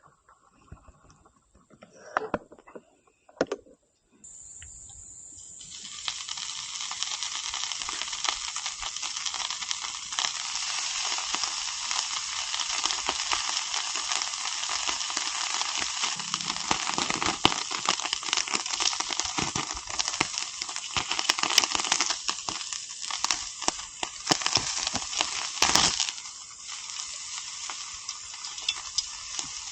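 Meat sizzling on a grill over a mini fire pit: a steady frying hiss with scattered crackles and pops. It starts suddenly about four seconds in.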